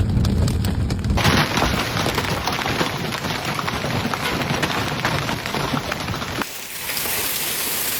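Heavy storm rain pelting down with many sharp ticks of impacts. A low rumble in the first second cuts off abruptly, and near the end the sound changes to a steady hiss of rain.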